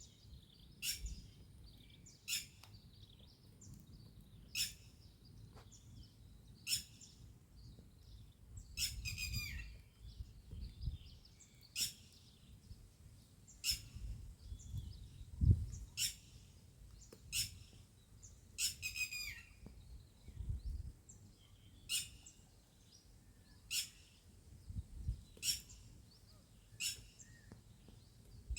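A bird calling over and over: short, sharp notes falling steeply in pitch, one every second or two, with a rapid trilled call twice. Low rumbles and a thump about halfway through sit underneath.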